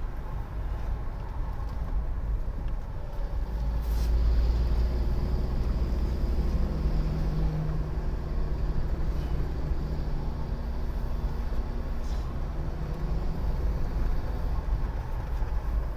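A car driving on the road, heard from inside: a steady low rumble of engine and road noise, with an engine hum that swells for a few seconds around the middle.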